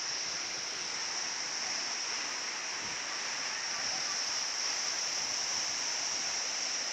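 Steady rushing of a mountain waterfall, an even unbroken roar with a high steady hiss running over it.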